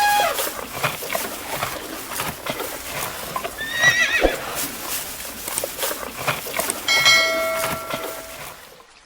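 A horse whinnying three times, at the start, about four seconds in, and in a longer call near the end, over a steady clatter of hooves clip-clopping.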